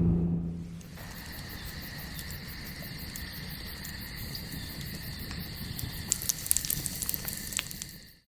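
A car engine's sound dies away within the first second, leaving insects trilling steadily at two high pitches. Sharp crackling clicks come thicker for the last couple of seconds before the sound cuts off.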